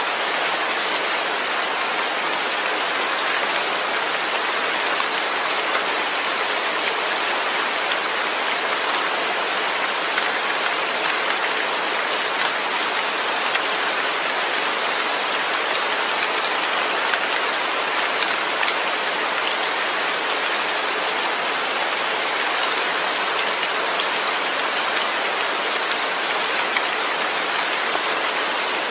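Steady rain without thunder: an even hiss of falling rain with the fine patter of individual drops, holding constant.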